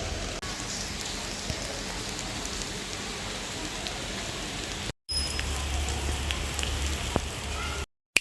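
Steady rain falling, an even hiss with scattered drips, broken by a brief drop-out about five seconds in and cutting off shortly before the end.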